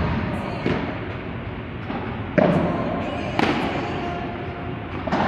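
Padel rally: the ball is struck by rackets and bounces off the court and walls, about five sharp, echoing knocks at uneven intervals over steady hall noise.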